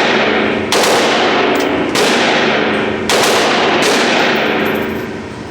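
Gunshots, three sharp reports about a second apart, each followed by a long echoing decay.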